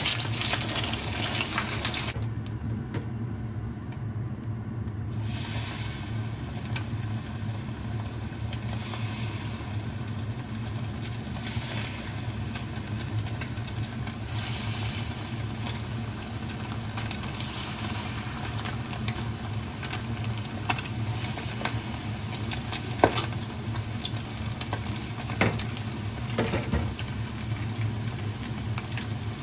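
Battered kisu (Japanese whiting) frying as tempura in a shallow pan of hot oil: a steady sizzle like the sound of rain. A low steady hum runs underneath, and a few light clicks come near the end.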